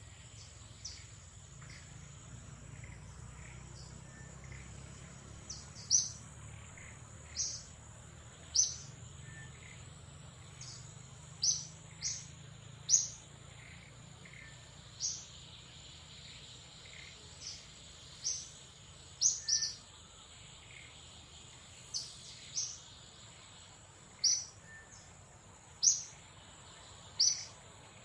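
Short, sharp, high bird chirps repeating irregularly every second or two, over a steady high-pitched insect drone.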